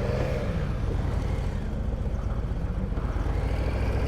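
Harley-Davidson Breakout's V-twin engine running, a steady low rhythmic pulsing with a slight change in pitch in the first second.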